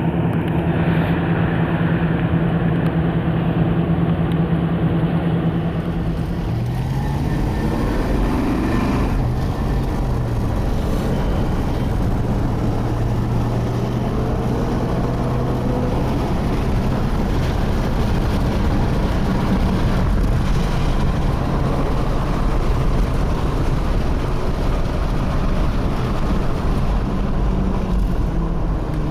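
1957 Nash Ambassador's original 327 cubic-inch V8 running steadily. Its pitch drops about six seconds in and then holds even.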